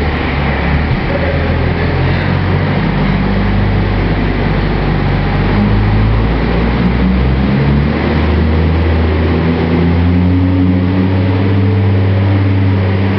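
Pulling truck's engine running hard under heavy load during a truck-pull run, dragging a weighted sled. The engine note shifts about halfway through and climbs again near the end.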